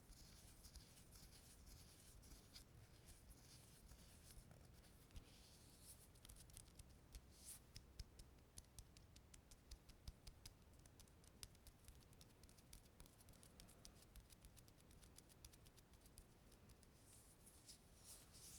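Faint, sticky clicking and crackling from a tacky surface being touched and pulled apart. Many quick ticks come thickest in the middle stretch.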